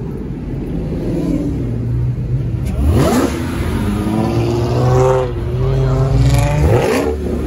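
A car engine idles with a low rumble, revs up sharply about three seconds in and holds a high steady note. It revs sharply again near the end.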